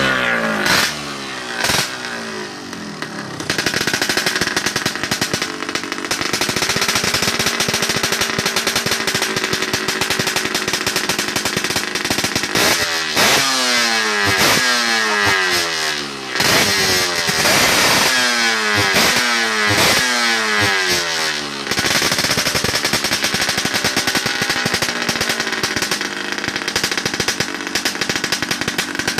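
Yamaha RX-King's single-cylinder two-stroke engine running through a stock-look racing muffler. A couple of quick revs at the start settle into a steady raised idle, then a string of sharp throttle blips through the middle, before it holds steady again.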